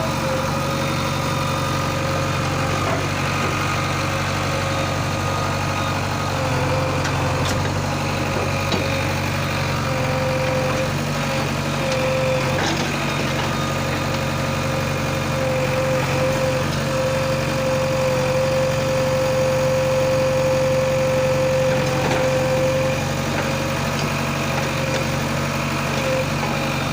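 Heavy diesel engine running steadily at low speed, with a steady high whine above the low drone and a few faint knocks.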